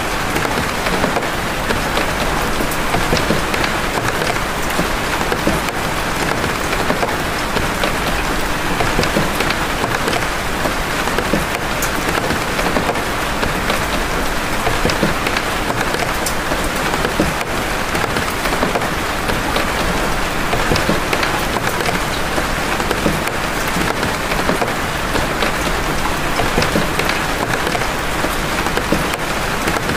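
Steady rain of big raindrops, a dense even hiss with individual drop hits standing out as sharp ticks.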